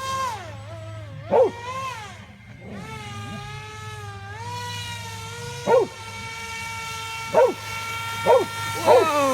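A dog barking five times in short single barks over the steady whine of the Cajun Commander airboat's motor and propeller, whose pitch dips and rises as the throttle changes.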